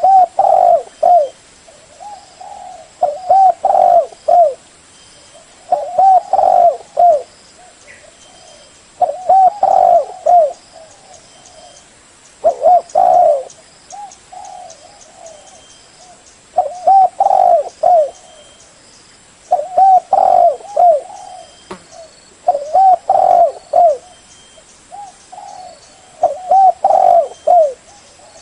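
Spotted dove cooing: a loud phrase of three or four low coos repeated about every three seconds, with softer single coos between the phrases.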